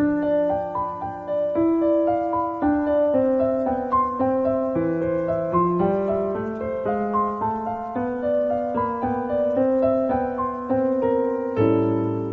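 Solo piano background music, a gentle melody of separate notes that each start sharply and fade.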